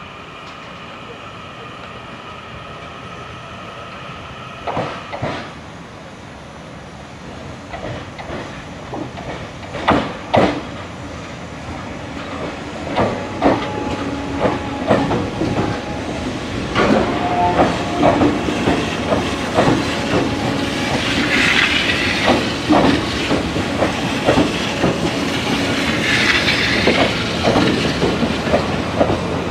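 A train running close by on the rails, its wheels clacking over rail joints more and more often as the loudness builds, with brief wheel squeal and hissing.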